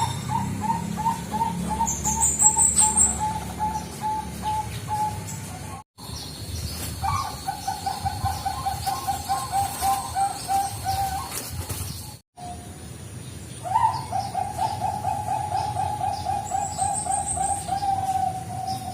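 Zebra doves (perkutut Bangkok) singing in three spliced recordings, each a long, rapid run of coos that opens on a higher note. Another bird chirps briefly and high-pitched twice, about two seconds in and near the end.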